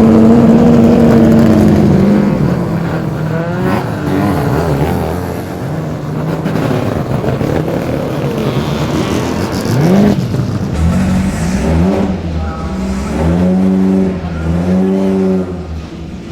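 Racing car engines: a loud, steady engine note for the first two seconds, then engines revving and accelerating, with a sharp rise in pitch about ten seconds in and revs held at steady pitches near the end.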